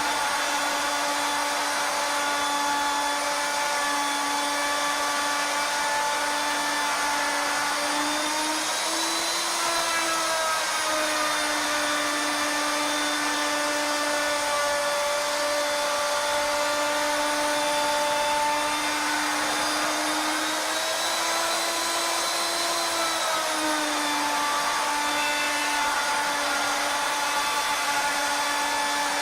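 Router spindle on a CNC machine running as it cuts a spiral into a turning wooden blank: a steady motor whine whose pitch sags and recovers a few times as the bit's load changes.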